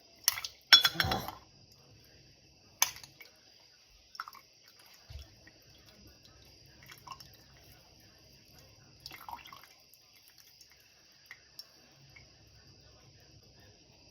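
Scattered drips of liquid and light clicks and knocks of handling, with the louder ones in the first three seconds, as steeped lavender sachets are squeezed out over a cup of warm syrup.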